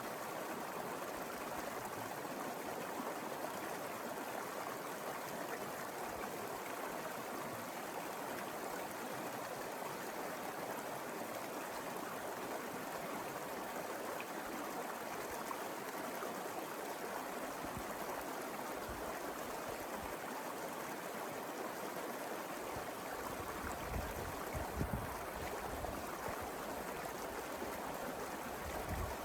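Mountain river flowing steadily, a continuous rushing of water. Some low rumbling joins it over the last several seconds.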